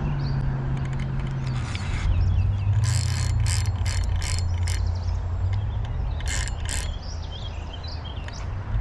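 Fishing reel's drag clicking in short bursts as a large hooked channel catfish pulls line, a run of several bursts about three seconds in and two more later, over a steady low rumble.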